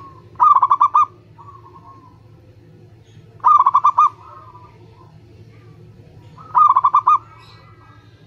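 Zebra dove (perkutut) cooing: three loud phrases about three seconds apart, each a quick run of four or five coo notes, with softer drawn-out coos between them.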